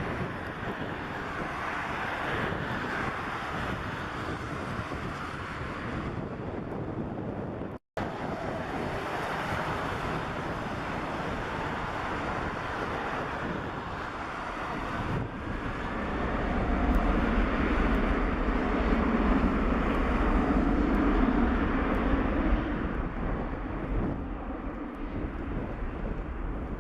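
Boeing 747-400's four jet engines at takeoff power, a deep rumble with wind on the microphone. About two-thirds of the way through it swells louder as the jet passes closest, then starts to fade. There is a short dropout about eight seconds in.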